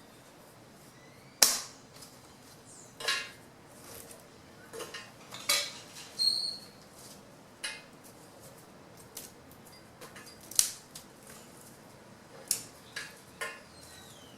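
Fallen branches being chopped or cut into wood chips by hand: a string of sharp cracks at irregular intervals, the loudest about a second and a half in.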